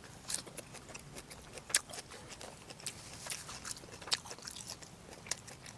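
A person chewing braised pork, with irregular short mouth clicks and smacks a few times a second.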